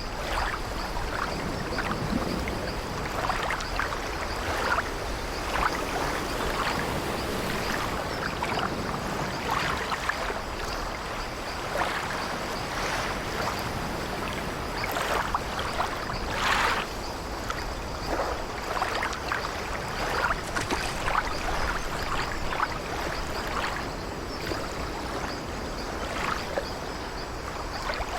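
Sea water sloshing and lapping against an old wooden ship, with the ship's timbers creaking now and then. The sound runs on evenly, with a slightly louder creak or splash about halfway through.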